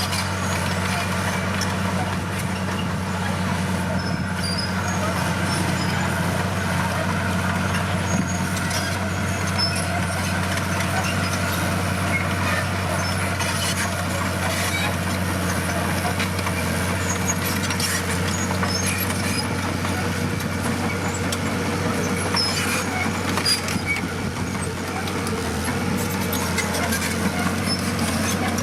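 Heavy construction-machine diesel engine running steadily under work, a constant low hum with a few faint knocks.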